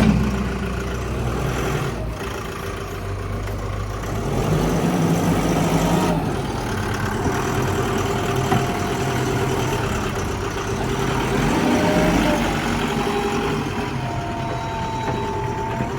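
Heavy diesel engines of a backhoe loader and loaded trucks running, the engine level swelling and easing a couple of times, about five and twelve seconds in.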